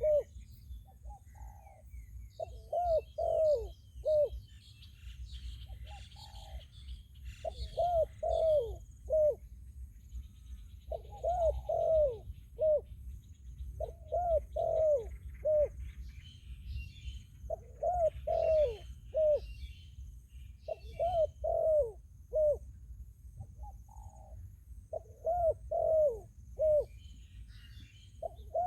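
Spotted doves cooing: short phrases of three to five low coo notes, repeated every three seconds or so. Fainter chirps from small birds come between the phrases over a steady high insect hiss.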